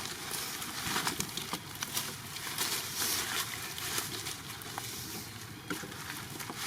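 Steady outdoor rustling and crackling with many small irregular clicks, like leaves and twigs being moved.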